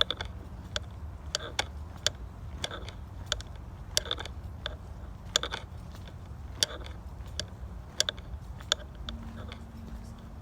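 Footsteps of a person walking along a forest trail at an even pace, about one and a half sharp crunching steps a second, over a steady low rumble.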